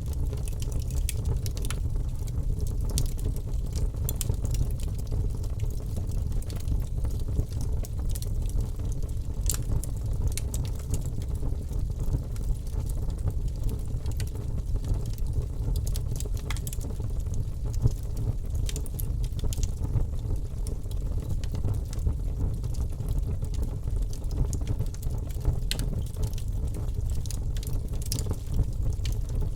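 Wood fire burning in a fireplace: a steady low rumble of flames with scattered sharp crackles and pops, one louder pop a little past the middle.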